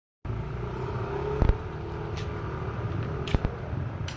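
Suzuki Satria FU's single-cylinder engine, breathing through a WRX GP3 Limited aftermarket exhaust, running at a steady idle just after a cold start. A few sharp knocks come through, the loudest about a second and a half in and another pair near the end.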